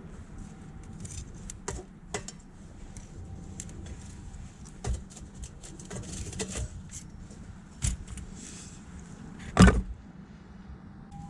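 Scattered clicks and knocks over a low background hum, the loudest a sharp knock near the end.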